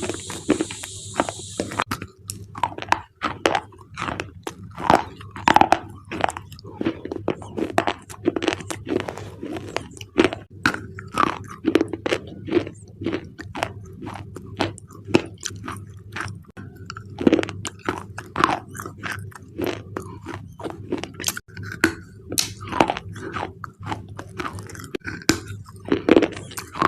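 Close-up crunching and chewing of thick black slate pencil bars: dense, irregular sharp crunches, several a second, with a brief hiss at the very start.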